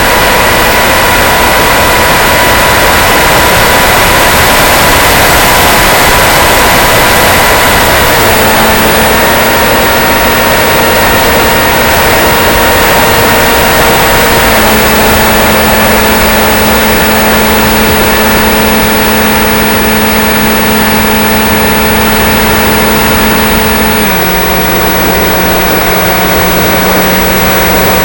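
Electric motor and propeller of an Aero Scout RC plane running steadily in flight, a whine over a loud rush of wind noise. The whine steps down in pitch three times, a little lower each time.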